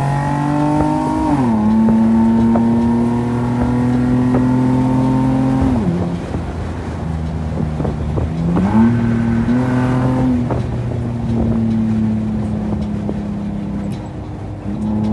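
Infiniti G35's V6 with a loud exhaust, driven through the gears: the engine note holds steady, drops sharply about a second and a half in and again near six seconds, climbs quickly about eight seconds in, then falls back to a steady cruise.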